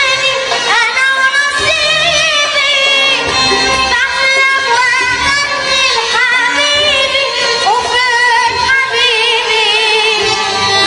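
A young girl singing, her notes wavering and gliding in ornamented runs, over instrumental accompaniment.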